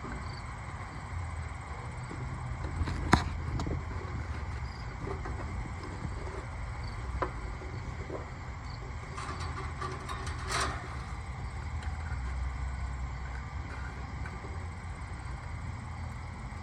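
Hand work on the wiring of a compressor hard start kit: a few clicks and taps of wire terminals and tools, the sharpest about three seconds in, over a steady low background rumble.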